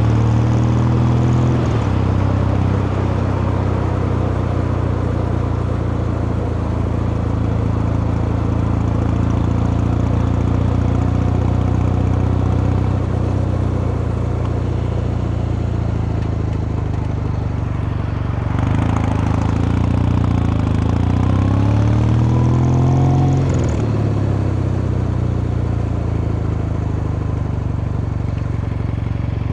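Kawasaki Meguro K3's vertical-twin engine and exhaust under way, running at steady revs for most of the time. About two-thirds through, the revs climb for several seconds, then drop off sharply.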